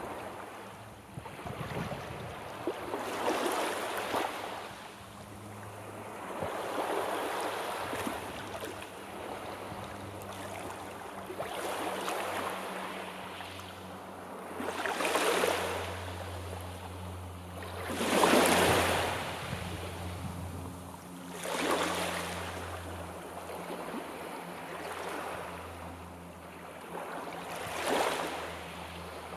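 Sea waves breaking and washing in, one surge every three to four seconds, the biggest about two-thirds of the way through.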